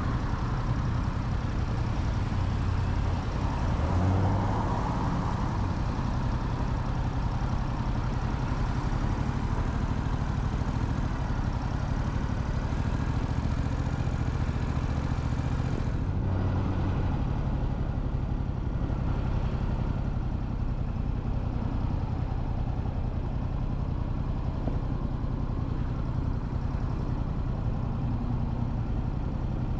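Motorcycle engine running steadily, with a continuous hiss of wind and road noise over it. The high part of the hiss drops away suddenly about 16 seconds in.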